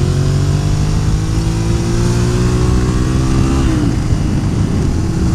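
Suzuki SV650S V-twin engine pulling hard under acceleration. The revs climb steadily, then drop sharply about three and a half seconds in, over wind rush.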